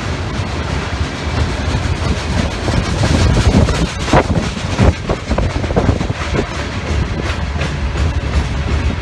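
Loaded coal train rolling past, its steel wheels clicking over rail joints with a steady rumble, the clicks growing louder about three seconds in. Wind is buffeting the microphone.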